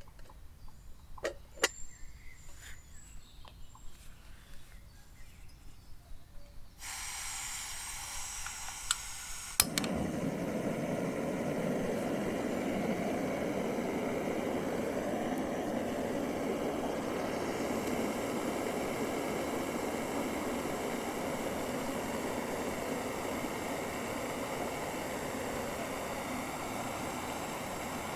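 Jetboil gas stove being lit. After a few handling clicks and taps, gas hisses from the opened valve, a sharp igniter click comes about a third of the way in, and the burner catches and runs with a steady, even rushing sound.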